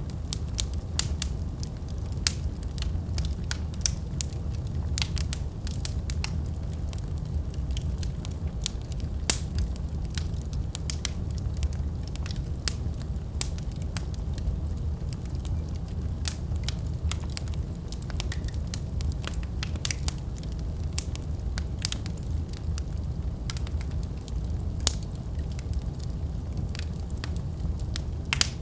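Wood fire burning in a fireplace: a steady low rumble of the flames with irregular sharp crackles and pops of burning logs, several a second.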